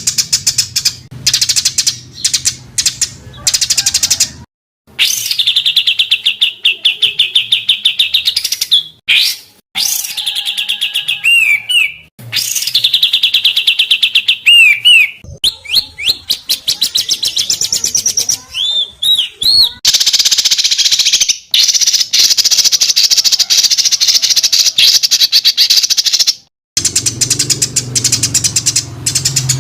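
Spliced songbird calls of the kind used as masteran training audio: loud, rapid, harsh trills and note runs ('tembakan') with looping whistled notes, broken by abrupt cuts between phrases. A low steady hum sits under the first few seconds and returns near the end.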